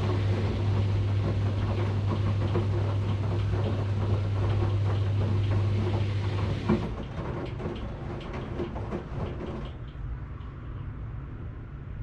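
Washing machine running with a steady low motor hum and uneven rattling from the drum. About seven seconds in, a single knock comes and the hum cuts off, leaving a quieter, duller sound.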